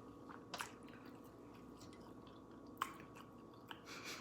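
Faint chewing, with a few sharp wet clicks of the mouth: about half a second in, near three seconds, and a longer one near the end.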